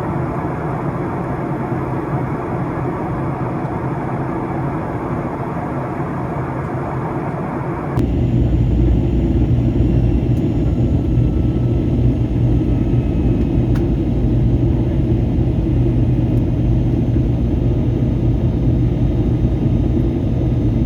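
Steady rumbling vehicle noise. About eight seconds in it changes abruptly to a louder, deeper rumble with a low steady hum.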